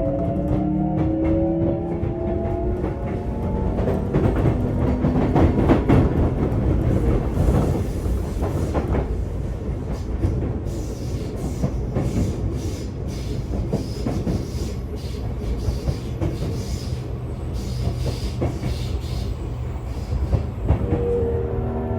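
Sotetsu 8000 series electric train heard from inside a motor car as it accelerates: the inverter and traction motors whine, rising in pitch over the first few seconds. Then comes steady running noise with the wheels clicking over rail joints, and near the end a new set of motor tones sets in.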